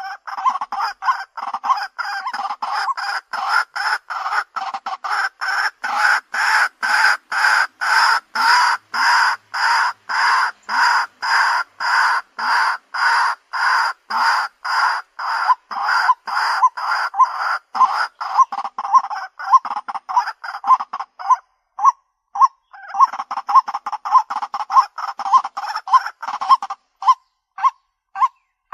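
White-breasted waterhen calling: a long run of repeated calls, about two to three a second. The calls break off briefly after about twenty seconds, resume, then thin to single, spaced-out notes near the end.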